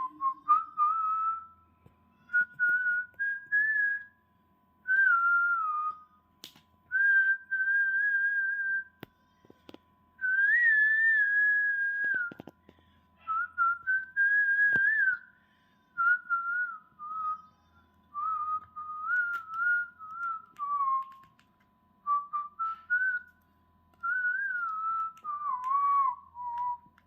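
A parrot whistling a tune in a string of short phrases with brief pauses, the pitch gliding up and down.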